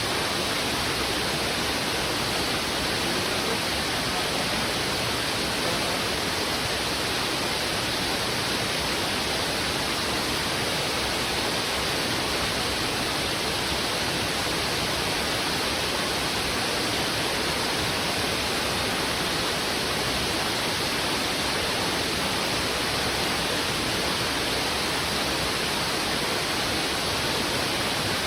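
Heavy river water rushing fast over rocks: a steady, unchanging rush.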